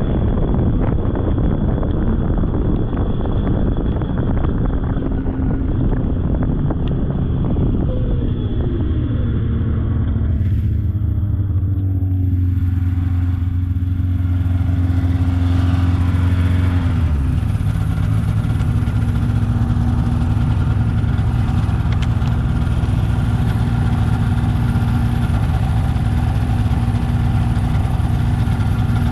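Polaris snowmobile engine running along a trail, with rushing wind-like noise at first. The engine note falls about a third of the way in and then holds steady, with a further step down a little past halfway before it runs on evenly.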